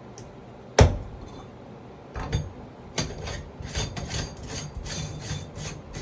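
Metal tool clinking against the brass parts of a Sloan flush valve while a fitting is being tightened: one sharp knock about a second in, then a run of light, evenly spaced clicks about three a second.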